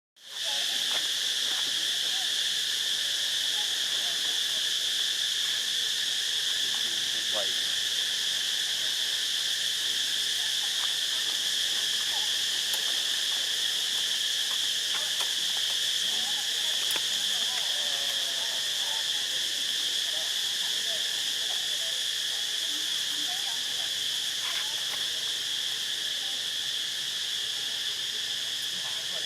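Steady, continuous high-pitched insect chorus, a droning whine with no breaks, with faint scattered calls underneath.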